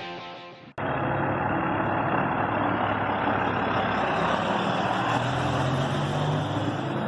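Background music fades out within the first second. After an abrupt cut, a truck's engine runs steadily, its low hum shifting slightly in pitch under a steady hiss.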